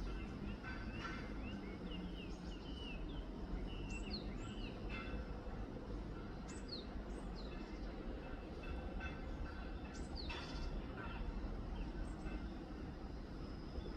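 Small birds chirping in short rising and falling calls, thickest in the first few seconds and again about ten seconds in, then thinning out. A faint steady high-pitched tone and a constant low outdoor rumble run underneath.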